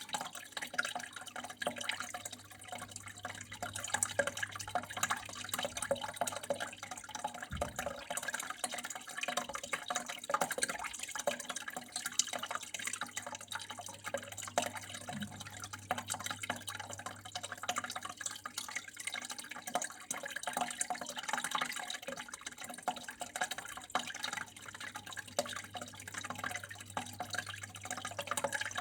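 Flowing water trickling and splashing steadily, with a constant patter of fine drips and a low steady hum underneath.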